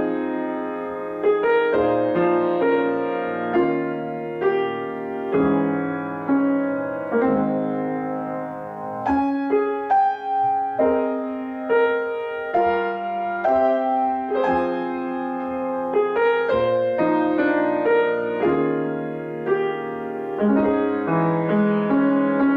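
Solo piano playing a slow, gentle new-age piece, melody notes struck every second or so over sustained chords.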